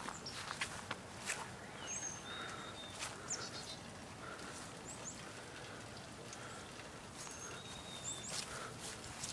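Small birds calling outdoors: short thin high whistles and quick chirps repeating every second or two, over scattered light rustles and clicks on dry grass and leaves.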